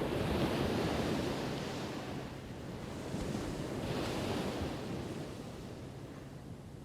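Ocean waves breaking on a shore: one wave crashes right at the start and a second surges in about three to four seconds in, each washing back down.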